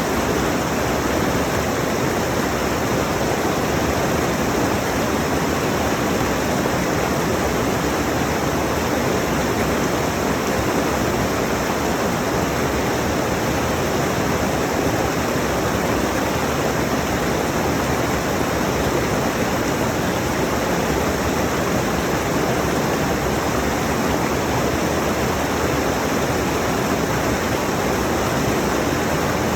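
Rushing mountain stream: water pouring steadily over rocks in an even, unbroken rush.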